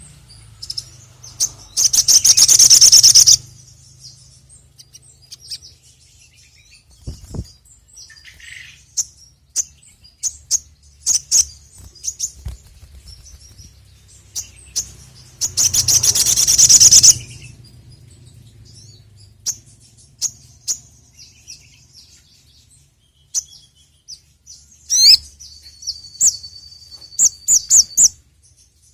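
Sogon (sogok ontong) sunbird singing: scattered sharp, high chirps, broken twice by a loud rapid trill lasting about two seconds, once near the start and once about halfway. Near the end come quick sweeping notes over a held thin whistle.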